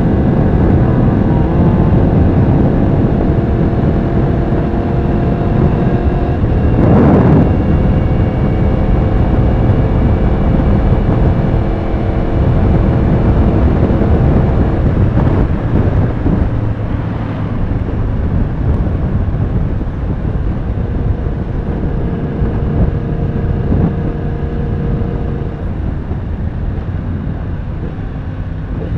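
Yamaha R1's inline-four engine running at a steady speed while riding, under heavy wind rush. A brief louder swell comes about seven seconds in, and the engine note eases off a little past halfway.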